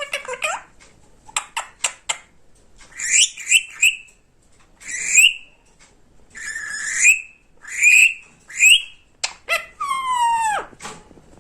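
Pet parrot calling: short squawks and chirps that rise in pitch, a few sharp clicks, and near the end a long whistle that falls steeply in pitch.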